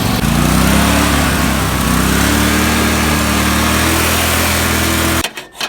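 Small tractor engine running steadily after being fed fuel to get it going, its revs climbing briefly at the start and then holding; the sound cuts off abruptly near the end.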